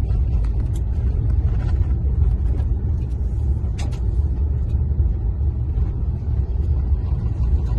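Car driving on a gravel road: a steady low rumble of tyres on gravel, with a few sharp ticks along the way.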